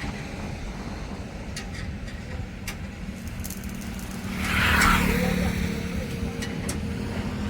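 Tractor engine running steadily at a low, even pitch. About four and a half seconds in, a brief louder rushing hiss rises over it and fades.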